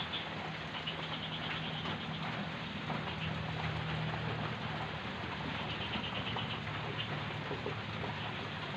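A small electric motor humming steadily under a rough, scratchy hiss, with short high squeaky chirps now and then, as when a polishing tool works against a metal motorcycle hub.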